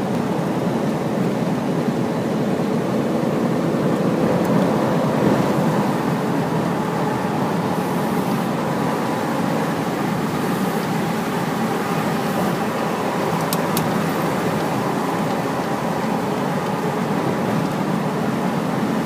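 Hino heavy truck driving at a steady pace, its engine running under even road and tyre noise. Two faint ticks come about two-thirds of the way through.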